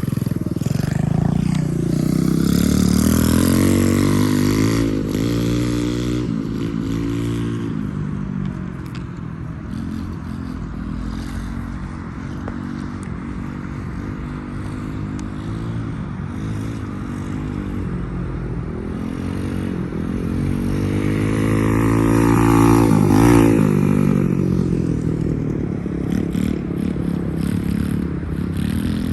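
Small motorbike engine under way, accelerating and easing off again and again, its pitch climbing and falling several times. The strongest climb comes about three-quarters of the way through.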